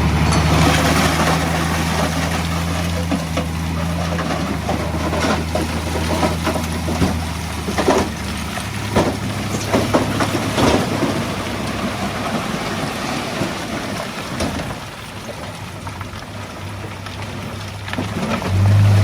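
Heavy diesel engine of a bulldozer or dump truck running steadily, fading after about eight seconds and picking up again near the end. Several sharp knocks come through between about five and eleven seconds in.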